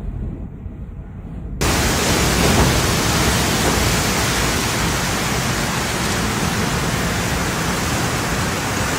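Low rumble of wind buffeting the microphone, then an abrupt cut about a second and a half in to a loud, steady hiss of cyclone wind and heavy rain.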